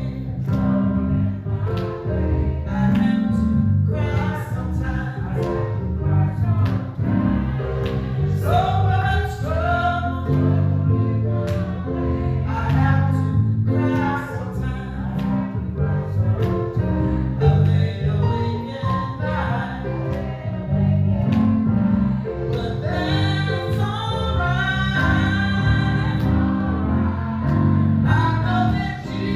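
Gospel music: several voices singing together over instrumental accompaniment with a steady bass line.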